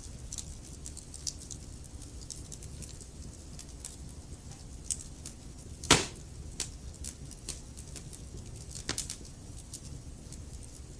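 Burning wood logs crackling: a steady low rumble of flames with scattered sharp snaps, one loud pop about halfway through and another a few seconds later.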